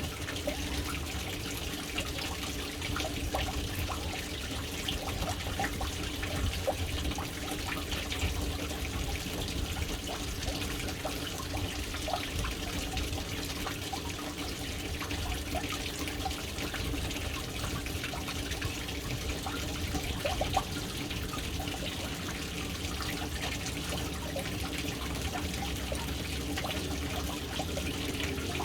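Water running into a household water tank: a steady stream splashing onto the water surface, with small irregular drips and trickles over a low rumble.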